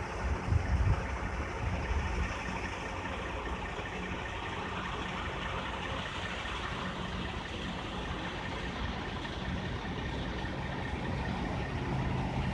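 A vehicle driving at highway speed: a steady engine hum under a broad rush of tyre and road noise, with a few low thumps about a second in.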